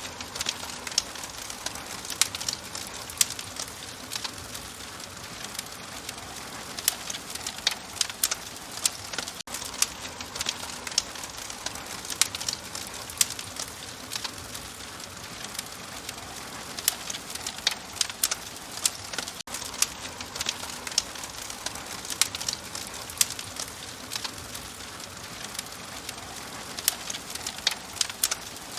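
Wood fire crackling steadily, with frequent sharp pops and snaps over a soft hiss.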